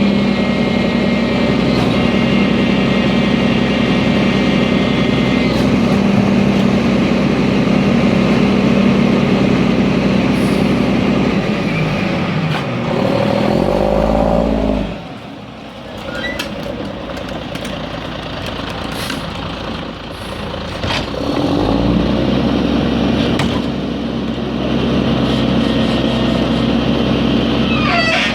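Diesel garbage truck engine running at raised revs while packing trash. The revs fall away about a quarter of a minute in and build back up about seven seconds later.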